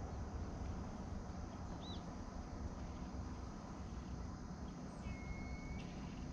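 Quiet lakeside ambience with a faint low rumble. Two brief high bird calls stand out: a short arched chirp about two seconds in and a thin steady whistle lasting under a second near the end.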